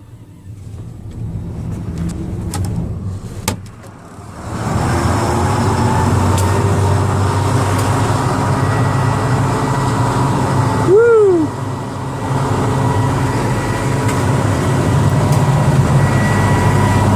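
Case IH 7230 Axial-Flow combine's diesel engine cold-started: it cranks for about four seconds, catches, and settles into a steady loud idle. A brief tone rises and falls about halfway through.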